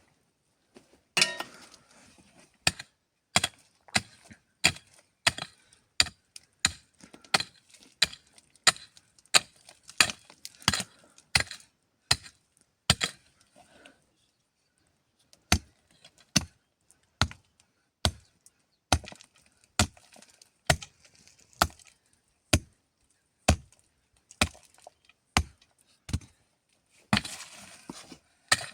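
Steady chopping: sharp strikes about three every two seconds, pausing briefly about halfway through, with a rougher, splintering stretch near the end.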